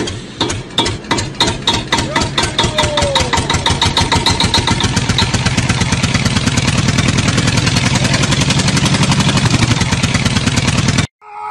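Engine chugging, its beats starting slow and speeding up into a fast, even run, then cutting off abruptly near the end.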